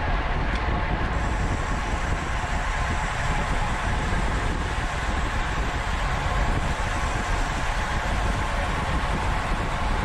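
Steady rush of wind and road noise from a road bicycle ridden at race speed, heard on an onboard camera's microphone, with a faint high, steady whine from about a second in.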